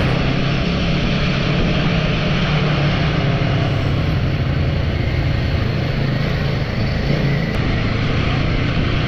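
Royal Enfield motorcycle engine running at a steady pace while riding, with a steady rushing noise over a low even hum.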